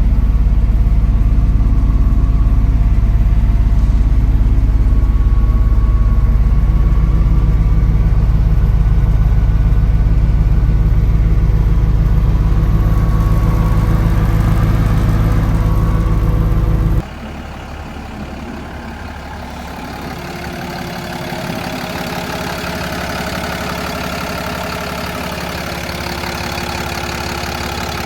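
Kenworth T270's PACCAR PX-7 six-cylinder diesel idling steadily and loudly. About two-thirds of the way through, the sound drops abruptly to a quieter, steady engine sound with less bass and more high-pitched hum.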